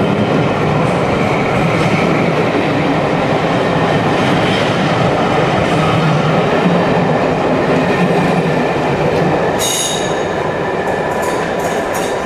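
Passenger coaches of a locomotive-hauled train rolling past at speed on departure, a steady rumble of wheels on rail. A brief high wheel squeal comes about ten seconds in, then a run of sharp clicks as the wheels cross rail joints, and the sound eases off as the train draws away.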